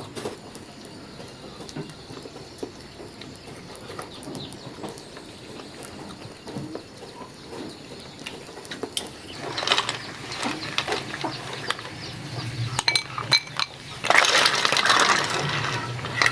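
Scattered light clinks and knocks of hard objects. There are two louder rushing, scraping stretches, one about ten seconds in and a longer one near the end.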